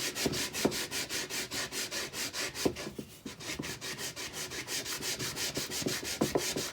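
A homemade hand sanding tool rubbed back and forth in a teak deck seam, sanding the seam's sides clean after the old caulking is cut out, ready for new caulking. The strokes are quick and even, about five or six a second.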